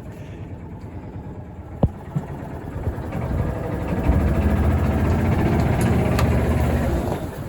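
Engine of the machine pushing an antique tractor into the shed, running low, then revving up about three seconds in and working harder for a few seconds before easing off near the end. A sharp click about two seconds in.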